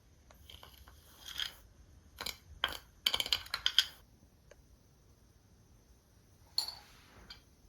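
A run of small hard clicks and clatters, like objects knocked together or set down, densest about three seconds in, with one more knock near the end.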